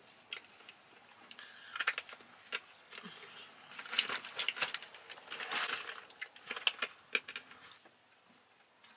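Rustling with a quick, irregular run of sharp clicks and taps from small hard objects being handled, dying away about a second before the end.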